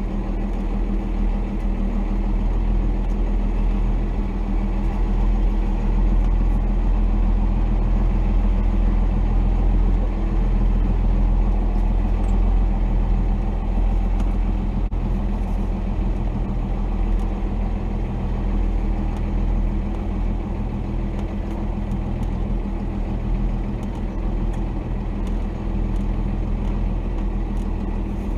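1990 Dodge D250's Cummins straight-six diesel running steadily at low revs.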